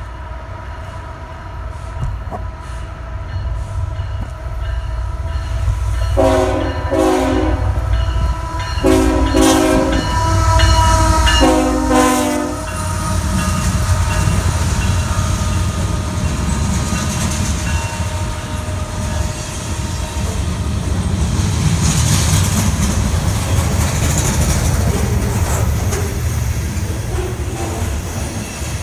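Diesel freight locomotive rumbling as it approaches, sounding its air horn in a series of blasts from about six to twelve seconds in. The train then rolls by with steady wheel-on-rail noise.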